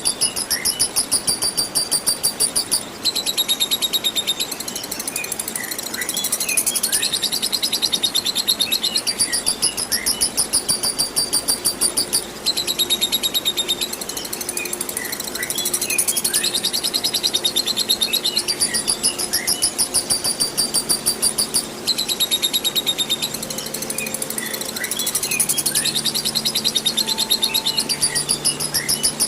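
Lovebird ngekek song: long runs of rapid, high-pitched chattering trill, coming in bursts of a few seconds that recur throughout, over a steady hiss of running water.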